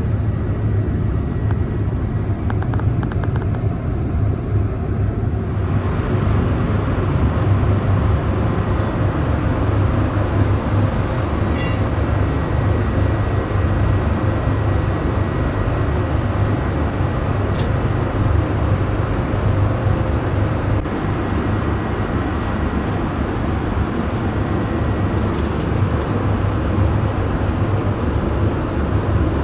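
Steady cabin noise inside a Boeing 787-8 airliner: the even rush of air and drone of the engines, with a few faint ticks.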